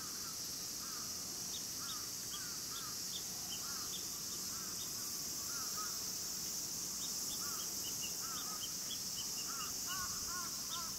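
Birds calling over and over in short rising-and-falling chirps, with short high chirps in between, over a steady high-pitched summer insect chorus. The calls come thicker near the end.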